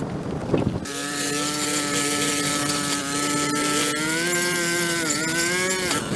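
Small petrol engine of a handheld power tool starting up about a second in, then running at high speed at a steady pitch, which wavers and dips briefly twice near the end.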